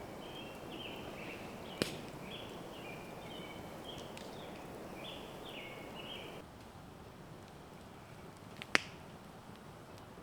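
A songbird singing a string of short, repeated chirping notes over a steady background hiss; the song and hiss cut off abruptly about six seconds in. Two sharp pops stand out, one about two seconds in and a louder one near the end.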